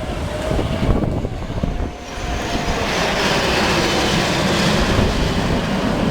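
Aircraft flying past at an air display. Its engine noise swells from about two seconds in and stays loud, with wind buffeting the microphone.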